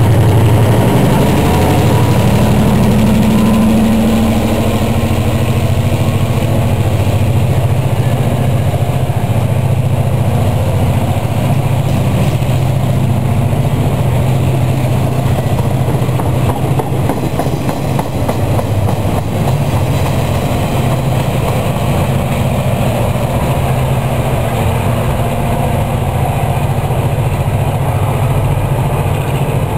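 EMD MP15AC diesel switcher locomotive's 12-cylinder two-stroke engine running under load as it pulls a work train away from a siding. A steady low drone throughout, a little louder in the first few seconds.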